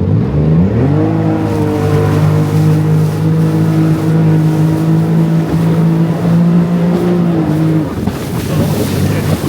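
Jet ski engine speeding up, holding a steady high pitch for several seconds, then easing off near the end as the throttle is released.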